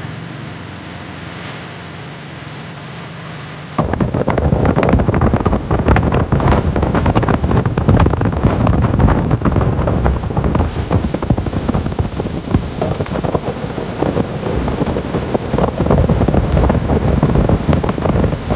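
Motorcycle riding on the highway: a steady engine and road hum, then about four seconds in, loud wind buffeting on the microphone suddenly takes over and keeps on in rough gusts.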